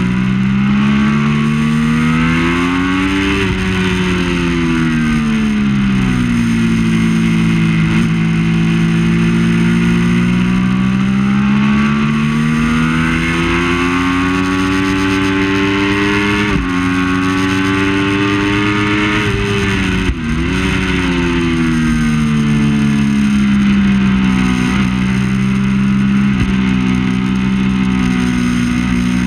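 Triumph Daytona 675's three-cylinder engine at racing speed, its pitch climbing and falling repeatedly with throttle and gear changes over a steady rushing noise. The engine note drops sharply about halfway through and again a few seconds later.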